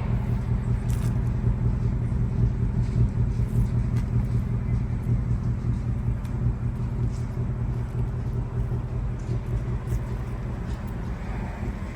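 Ford Mustang GT's 5.0-litre V8 running steadily at a low, even rumble through its performance exhaust, without revving.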